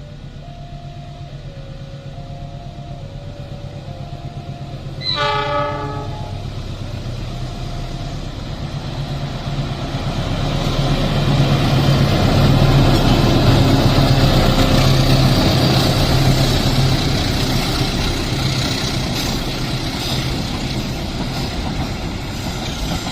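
A level-crossing warning alarm sounds in two alternating notes, and a train horn blows briefly about five seconds in. Then diesel-hauled trains pass through the crossing: a low locomotive engine note and the rumble and clatter of wheels build to their loudest around the middle and run on as the carriages and wagons go by.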